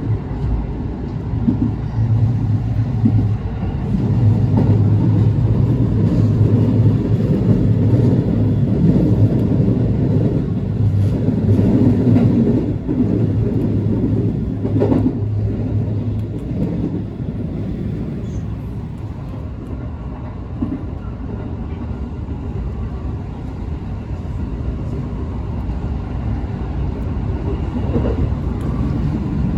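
Running noise of a JR West 221 series electric train, heard from on board: a steady low hum with wheels rumbling on the rails. It is louder for several seconds in the first half, with a brief sharp noise about halfway through.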